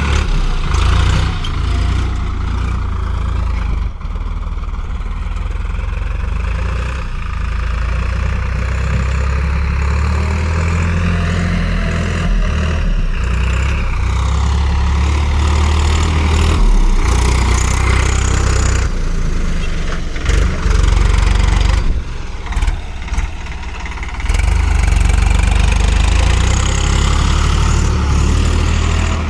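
Swaraj 855 FE tractor's three-cylinder diesel engine running steadily while pulling a cultivator, its pitch drifting up and down, with a brief drop in loudness a little past two-thirds of the way through.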